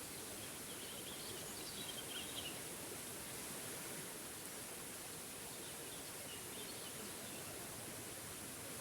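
Steady rush of a small forest waterfall. A bird chirps over it, a short run of high chirps in the first couple of seconds, and fainter again about six to seven seconds in.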